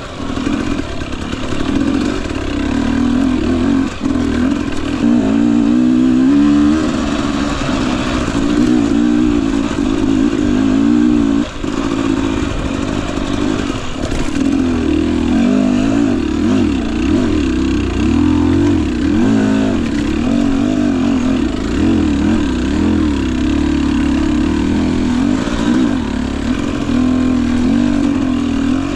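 2021 Husqvarna TE250i fuel-injected two-stroke engine running on a slow trail ride, its pitch rising and falling again and again with short throttle changes.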